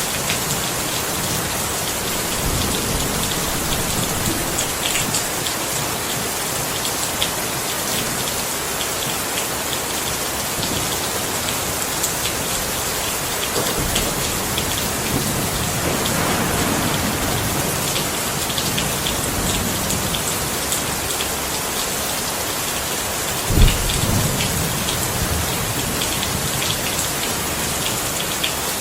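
Steady rain falling, with many small drops ticking on a surface. About three-quarters of the way through comes a single sudden low thump, the loudest moment, with a short low rumble after it.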